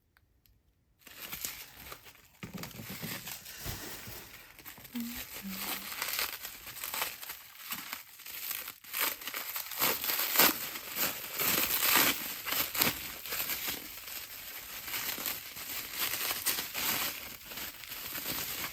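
Packing wrap crinkling and rustling as a small crystal is unwrapped by hand, starting about a second in, with many small crackles throughout.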